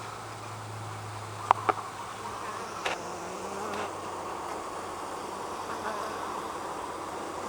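Honeybees buzzing around an open hive in a steady drone, with a few sharp clicks about one and a half and three seconds in.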